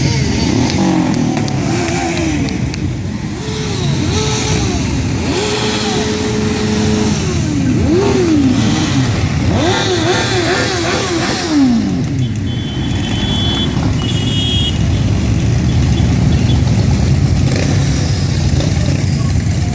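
Several motorcycle engines running and being revved as they ride past, their pitch rising and falling again and again over a steady engine rumble. Two short high tones sound about two-thirds of the way through.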